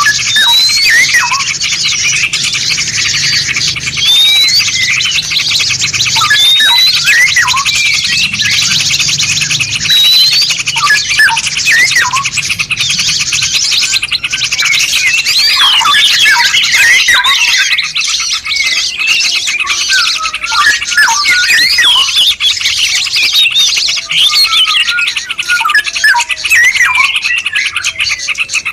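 A dense chorus of many songbirds calling over one another: fast chirps, trills and short rising and falling whistles with no break.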